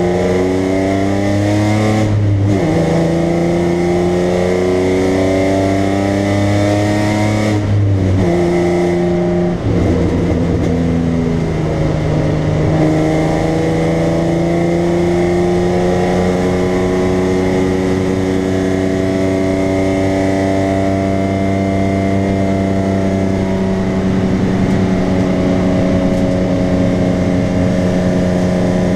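BMW 325i's straight-six engine, heard from inside the cabin, pulling hard around a racetrack. Its pitch climbs through the gears, with two quick gear changes about 2 and 8 seconds in, then a long, slow rise in revs.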